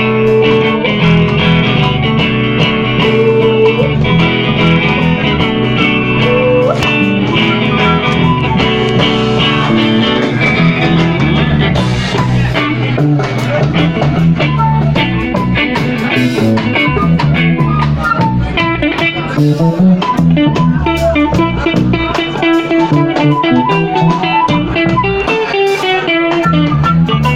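Loud blues-style guitar music: picked electric guitar notes over a bass line.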